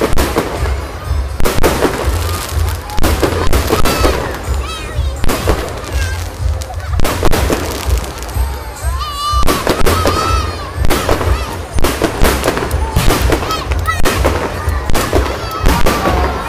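Fireworks going off in rapid, irregular bangs, several a second, over a crowd. Honking calls that rise and fall sound over the bangs, thickest around the middle.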